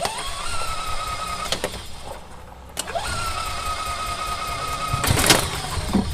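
EZGO TXT gas golf cart's new starter generator spinning the engine over twice, each time with a whine that rises quickly and then holds steady. A loud clattering burst comes near the end.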